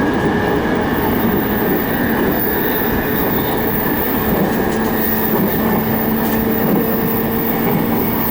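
Electric commuter train running at speed, heard from inside the car: a steady rumble of wheels on rail with a faint steady hum.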